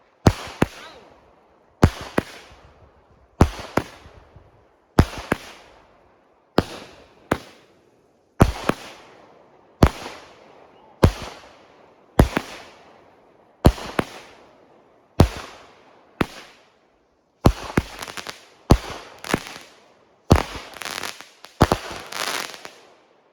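A consumer multi-shot firework going off in a run of about twenty sharp bangs, a little more than one a second, each fading out, with the shots coming closer together and crackling near the end.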